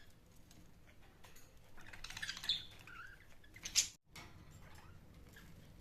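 Budgies chirping softly and scratching and pecking at a toy, with a sharp click just before four seconds in.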